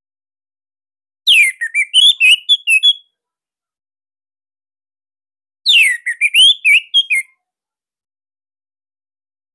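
Orange-headed thrush (anis merah) singing two short, loud phrases about four seconds apart. Each phrase opens with a sharp downward-sweeping whistle and runs into a quick string of warbled notes.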